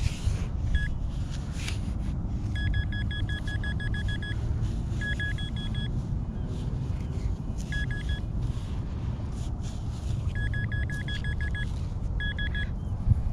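Handheld metal-detecting pinpointer beeping in quick, even pulses at one pitch, about seven a second, in several short bursts as it is moved over a target in the sand. A steady low rumble runs underneath.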